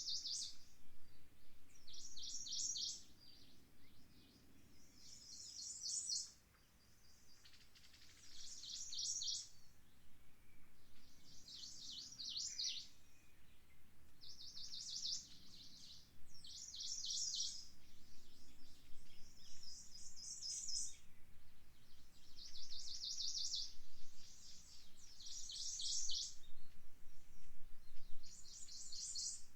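A small songbird singing: a high, rapid trill of quick repeated notes, each phrase about a second long and repeated every couple of seconds, over a dozen times.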